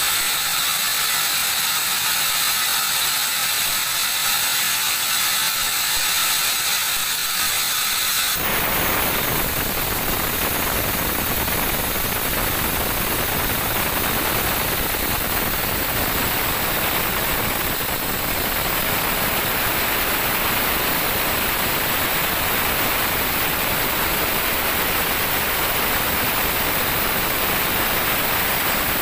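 Band sawmill working a teak log: a high-pitched mechanical rattle for the first several seconds. About eight seconds in it switches suddenly to a steady, full-range rushing noise.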